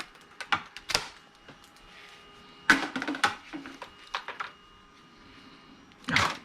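Clicks and rattles of scrap electrical cords and their plastic parts being handled and pulled apart by hand. A cluster of clicks comes about three seconds in, and a louder rattle comes near the end.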